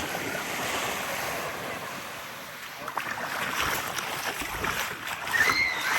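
Small waves lapping and washing onto a sandy beach, with faint voices of people further off; a short, high call sounds near the end.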